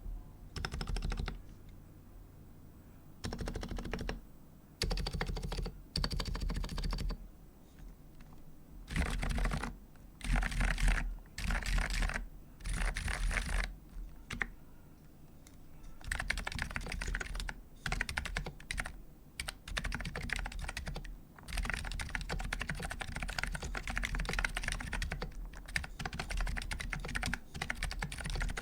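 Typing on a Type K keyboard with Dynacap electro-capacitive switches (medium domes, unlubed gold springs) in a steel plate with no foam, under GMK keycaps. Short separate bursts of keystrokes over the first half, then near-continuous fast typing with brief pauses.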